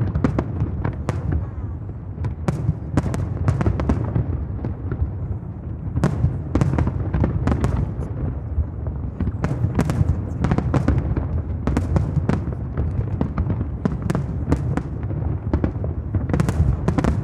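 Aerial fireworks display in full swing: a continuous low rumble of shell bursts with many sharp bangs and crackles.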